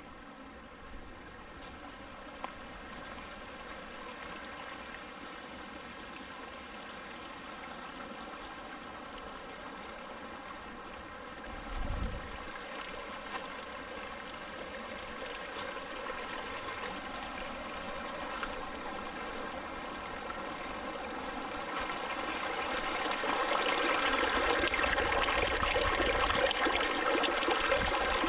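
A small mountain stream babbling steadily, growing louder about three-quarters of the way through. There is a single low thump about twelve seconds in.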